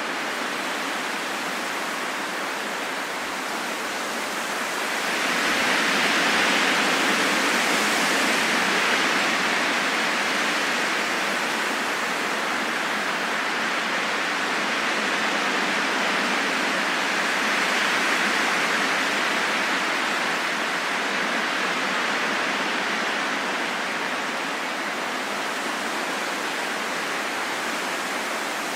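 Steady wind noise, a rushing hiss with no whistling tone, that swells louder about five seconds in and again in a gust near the middle before easing back.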